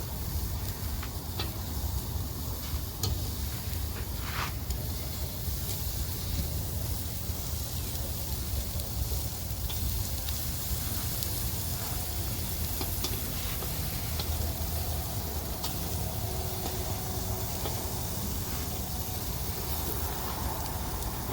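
Thin-cut beef short ribs (tablitas) sizzling steadily on a hot grill, with faint crackles, over a steady low rumble.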